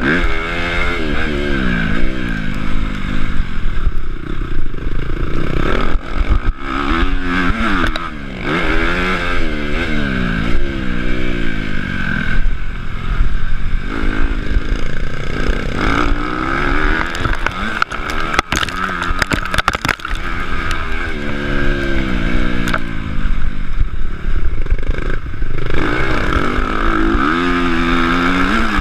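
Honda CRF250 motocross bike's four-stroke single-cylinder engine, revving up and dropping back over and over as the throttle is worked around the track, heard up close from the rider's chest with wind rush. Sharp knocks break in now and then.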